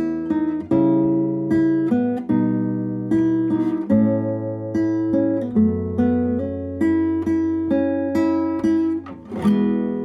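Acoustic guitar playing a picked instrumental passage of notes and chords, closing with a strum near the end that is left to ring and fade.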